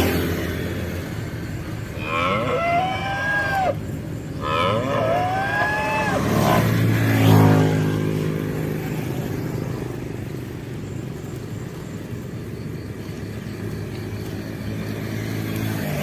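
Cattle mooing: two rising-and-falling calls a few seconds in, then a deeper, longer moo, with a steady low hum underneath.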